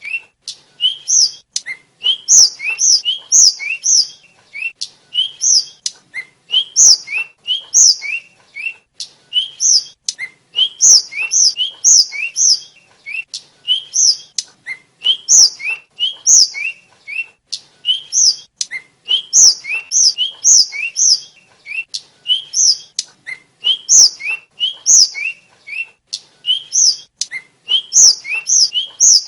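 A small songbird of the kind Indonesian bird keepers call tledekan or sulingan, a flycatcher, singing on and on in short, sharp, high notes that come in quick bunches of two to five with brief gaps between them.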